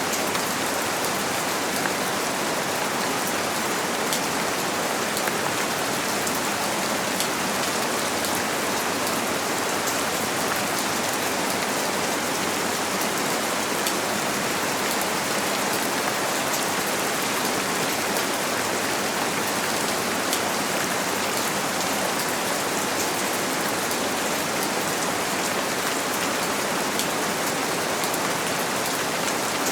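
Steady rain falling on a window: a dense, even hiss with scattered ticks of single drops, unchanging throughout.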